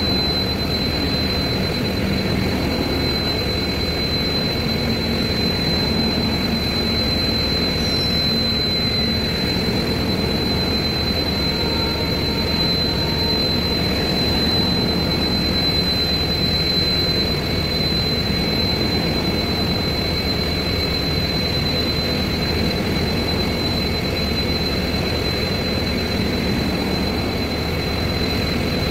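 Air-conditioned passenger coaches of a departing train rolling slowly past below, a steady rushing noise with a thin high whine held throughout.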